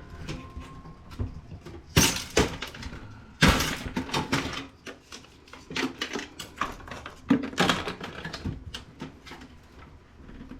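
Knocks, clicks and cracks of a desktop computer being taken apart by hand, plastic and sheet-metal parts being pried and pulled loose, with sharp cracks about two seconds in, three and a half seconds in, and again about seven and a half seconds in.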